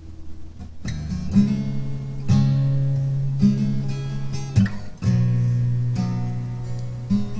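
Acoustic guitar strummed, a slow chord progression with each chord struck and left to ring, changing chord about once a second.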